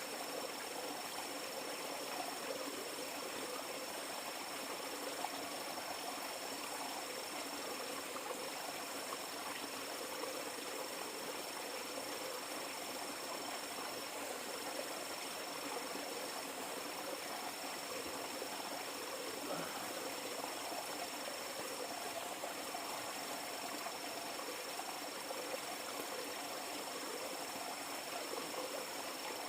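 Steady rush of flowing river water, with a continuous high insect trill that breaks off briefly a few times.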